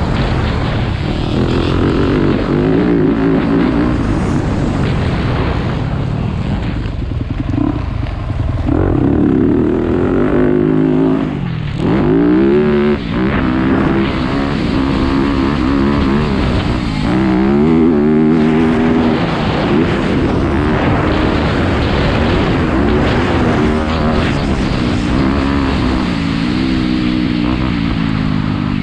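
Dirt bike engine running hard, its pitch climbing and dropping again and again as the throttle is opened and closed, with a short dip about twelve seconds in.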